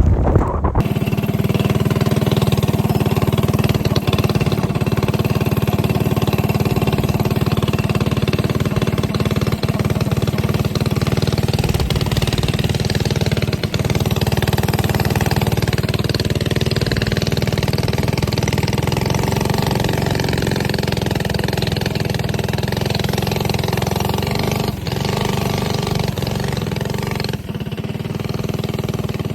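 Mini bike's small engine running steadily at a near-constant speed. It comes in about a second in, after a few sharp knocks.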